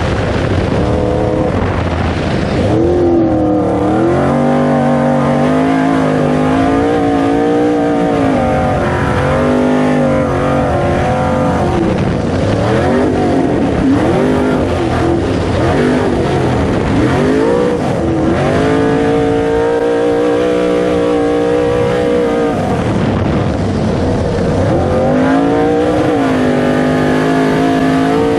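427 V8 engine of an off-road racing super truck under hard racing throttle, its pitch climbing and dropping back again and again as it is revved up and lifted off.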